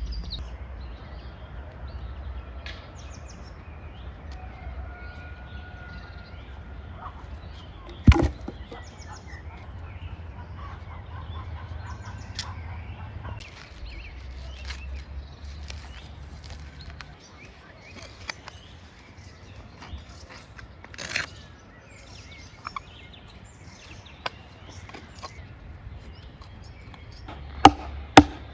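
Outdoor ambience with birds calling here and there over a low steady rumble. A single sharp knock comes about eight seconds in, and near the end a run of loud, quick chopping strokes begins.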